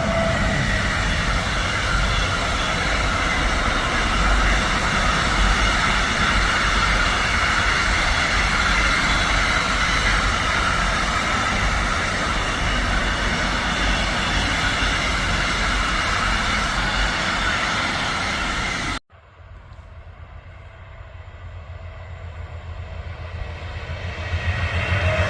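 Train passing at speed: steady rolling and wheel noise on the track. It cuts off abruptly about two-thirds of the way through, and then another train is heard approaching, growing louder near the end.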